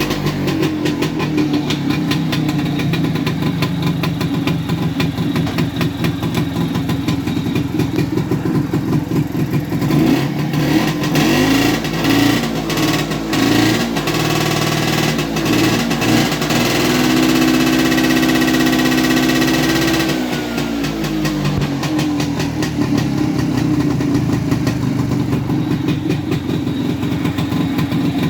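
Tula 200 scooter's single-cylinder two-stroke engine running, mostly at idle, with the throttle blipped irregularly about ten seconds in. It is then held at steady higher revs for about three seconds before dropping back to idle.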